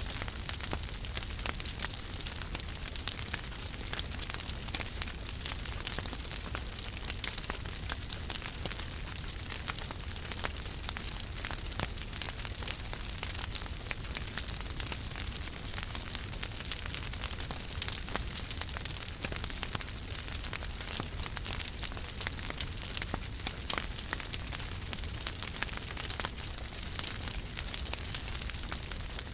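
Wood fire burning in a fireplace, crackling with frequent small pops over a steady hiss and a low rumble.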